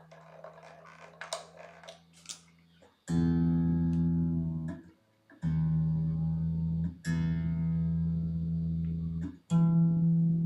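Electric guitar string on a 1997 Squier Jagmaster plucked four times, each note ringing a second or two, while its intonation is set by comparing the open string with the 12th fret on a tuner. Faint handling clicks come before the first note.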